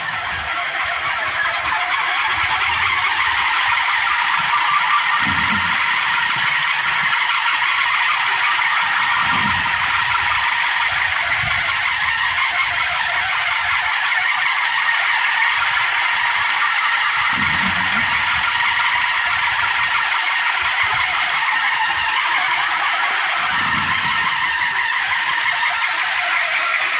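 A kolecer, a wooden wind propeller on a pole, spinning in strong wind with a loud, steady whirring drone. A few brief low rumbles come and go.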